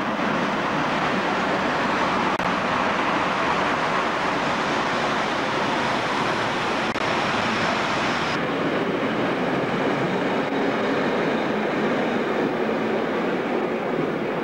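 Swiss Federal Railways passenger train rolling past close by: a steady rushing rumble of the coaches' wheels on the rails. The sound turns slightly duller about eight seconds in.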